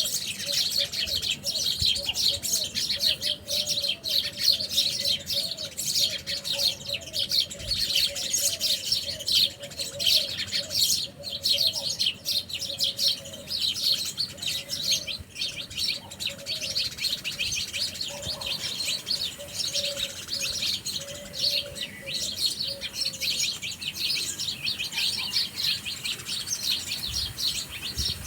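A flock of small birds chirping and twittering densely and without pause, with a lower warbling call running beneath the chirps until near the end.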